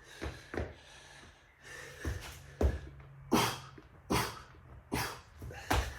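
A man breathing hard through a set of 3-pump burpees: a run of sharp, forceful exhales, about eight, with dull thumps of his body landing on the mat.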